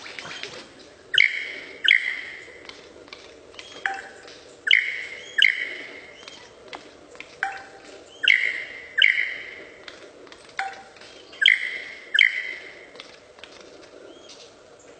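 Bird calls: loud, sharp two-note calls repeated four times at regular intervals of about three and a half seconds, each pair led by a shorter, lower note.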